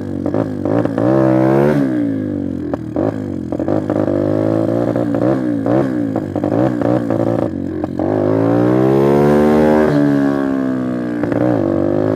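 Apollo X19 pit bike's single-cylinder engine revving up and dropping back again and again, with short clattering clicks between the revs and one long rev building about two-thirds of the way through. It runs on a newly fitted Mikuni carburettor that still needs adjusting, and the rider finds its idle and throttle response off.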